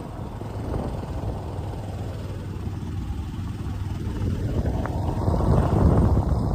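Rumbling, fluctuating noise of a vehicle travelling along a road, with wind buffeting the microphone; it eases slightly mid-way and builds again toward the end.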